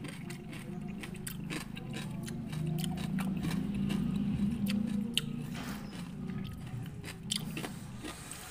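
Close-up chewing and biting of firm raw fruit chunks from a rujak, with many short crisp crunches. A low hum swells in the middle.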